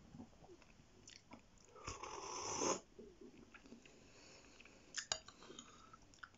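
Close-miked mouth sounds of a man chewing a mouthful of chicken massaman curry. About two seconds in there is a louder hissing rush lasting under a second, and there are two sharp clicks about five seconds in.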